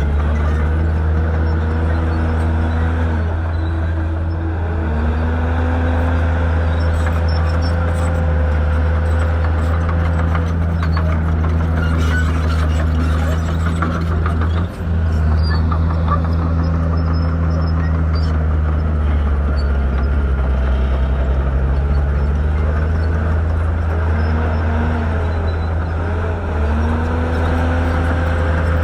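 Shantui bulldozer's diesel engine working hard, its pitch dipping and climbing back several times as the load comes and goes. There is a brief drop in level about halfway through.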